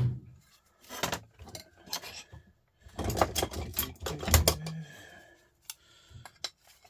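Metal parts and tools clinking and clattering as a scrapped starter motor is taken apart by hand. The clicks come in short groups, busiest about three to four and a half seconds in, with one heavier knock among them.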